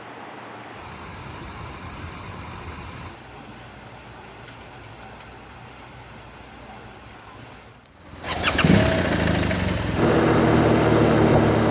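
An even hiss, then about eight seconds in a BMW R1200 GS boxer-twin engine starts with a brief crank and settles into a steady idle.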